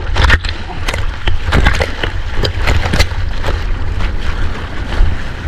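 Surf water splashing and slapping against a GoPro in the waves: a string of irregular sharp splashes over a steady low rumble.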